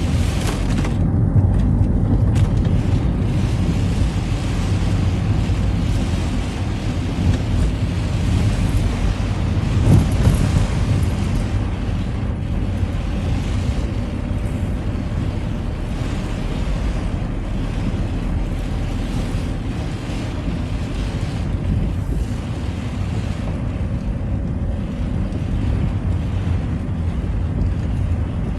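Citroën Xsara driving on a rain-wet road: steady engine and tyre noise with a hiss of water, and one brief louder noise about ten seconds in.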